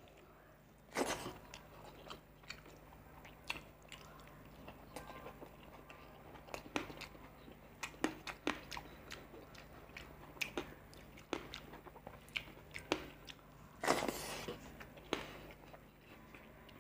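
Close-miked chewing and wet mouth sounds of a man eating rice and fish curry, a steady run of smacks and clicks with two louder bites, one about a second in and one near the end.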